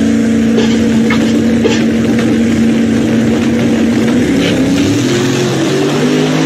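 Car engine running loud at high, steady revs, its pitch shifting up and down in steps over the last second or so.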